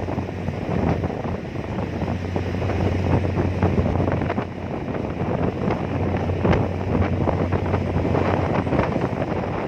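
Strong wind buffeting the microphone in uneven gusts, over the steady low drone of a car ferry's engine.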